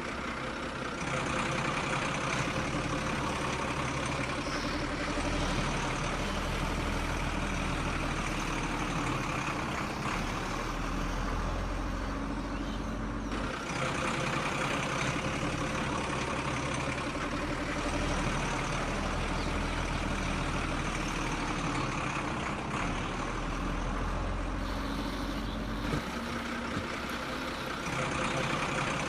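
Toy vehicle running with a steady mechanical engine-like sound that shifts in character a few times.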